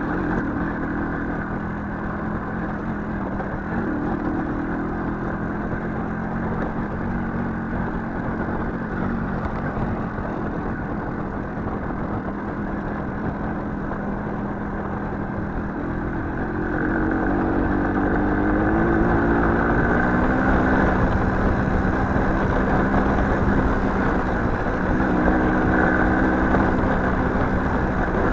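Small motorcycle engine running steadily under way. About sixteen seconds in it gets louder and rises in pitch as the throttle opens, then falls and rises again.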